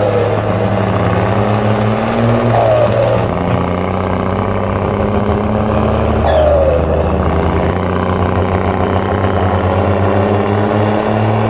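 Radio-controlled miniature bus and truck running: a steady motor hum whose pitch shifts slightly, with three short falling whines, near the start, about two and a half seconds in and about six seconds in.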